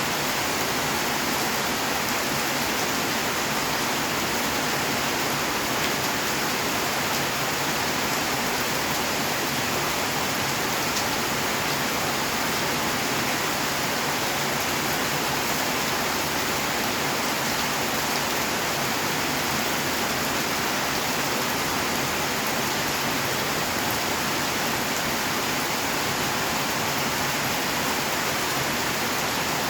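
Steady rainfall, an even hiss that holds the same strength throughout.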